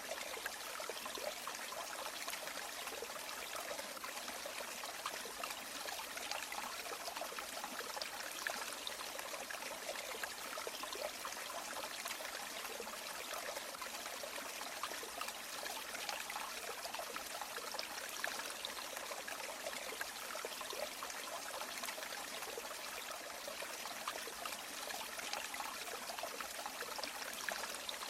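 Shallow river water running and trickling steadily, a continuous bright babble with many small splashes.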